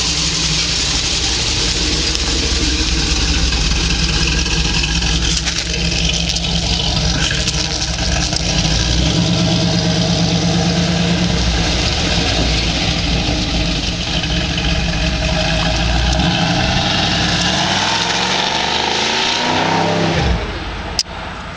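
Third-generation Chevrolet Camaro's engine running with a loud, low, steady note as the car backs out and moves off. Near the end it rises in pitch as the car accelerates away, then the sound cuts off suddenly.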